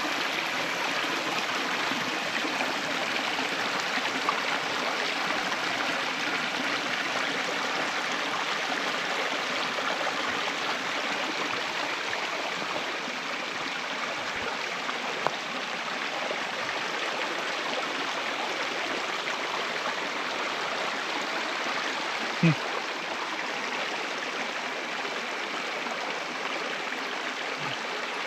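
Steady rush of running water, like a stream or water spilling through a channel. A brief low thump sounds about 22 seconds in.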